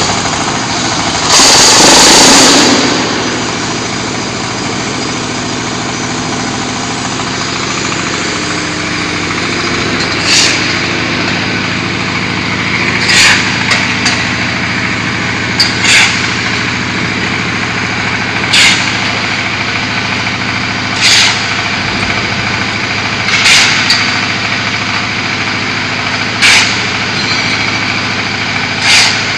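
Diesel engine of a QT4-30 hydraulic block machine running steadily. A loud hiss comes about two seconds in, then short hissing bursts about every two and a half to three seconds as the machine's hydraulics cycle.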